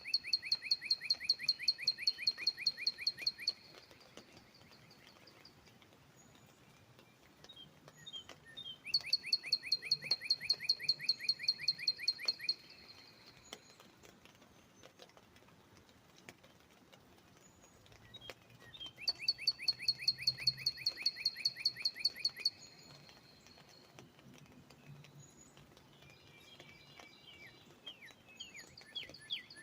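Northern cardinal singing: rapid trilled phrases of quick down-slurred notes, each about three and a half seconds long and repeated about every ten seconds. A slower phrase of notes begins near the end.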